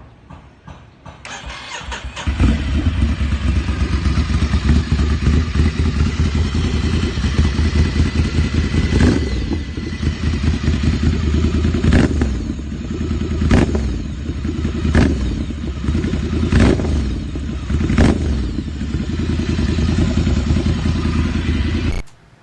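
Ducati Scrambler 800's air-cooled L-twin engine catching about two seconds in, then running loudly through its exhaust, with about six sharp cracks a second or so apart in the second half. The sound cuts off abruptly just before the end.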